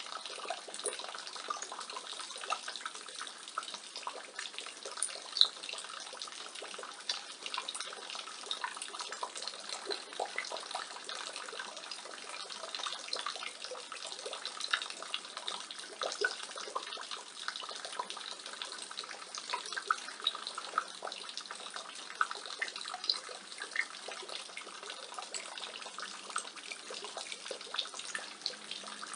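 Rainwater spilling from a roof gutter, a steady splashing with many irregular drops and the odd louder splat.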